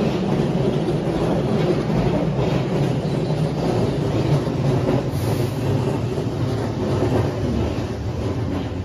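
Keihan 8000 series electric train running alongside the platform in an underground station, a steady rumble of wheels on rail that eases slightly near the end.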